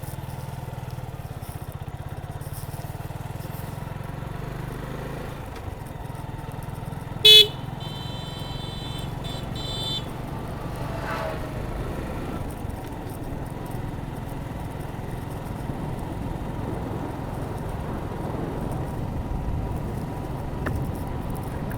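Suzuki Gixxer motorcycle running steadily on the road, with a short loud horn beep about seven seconds in and a second, longer horn sounding for about two seconds just after.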